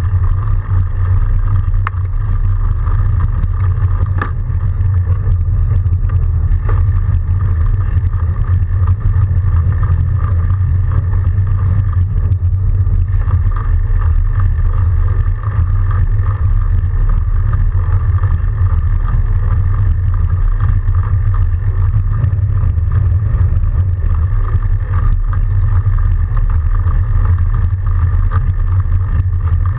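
Steady riding noise from a Surly Moonlander fat bike with BionX electric assist in snow: a loud, constant low rumble of tyres and wind on the microphone, with a steady higher whine running through it.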